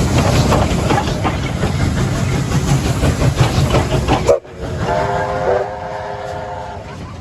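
Steam locomotive running, a heavy rumble with rapid exhaust beats, which cuts off suddenly about four seconds in. Then a steam whistle blows for about two seconds, a chord of several tones that fades near the end.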